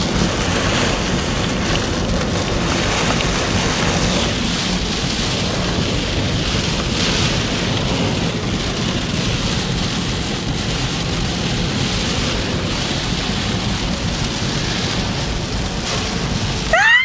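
Heavy rain falling steadily on a moving car, heard from inside the cabin. A short high-pitched cry rises and falls right at the end.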